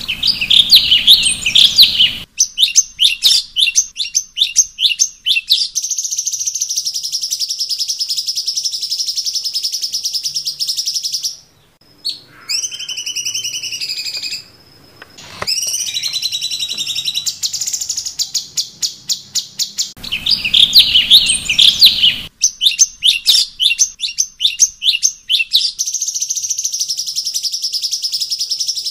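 Cucak cungkok songbird singing loudly: rapid runs of high chirps and fast trills, broken near the middle by a short pause and a few gliding whistled notes, then the same phrase sequence starting over as a repeating loop.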